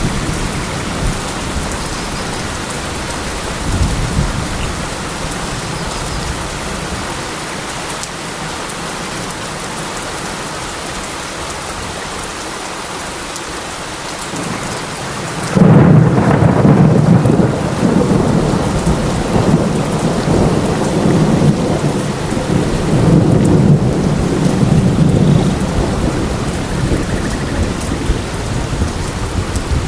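Steady rain falling, with thunder. About halfway through, a loud low rumble of thunder breaks in suddenly and keeps rumbling over the rain, swelling again a little later.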